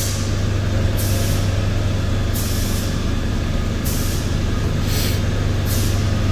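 Mazda Tribute 3.0L Duratec V6 engine idling steadily and smoothly ('purring'), its large vacuum leak at the oil separator gasket now repaired. Brief hissing sounds come and go about once a second over the steady hum.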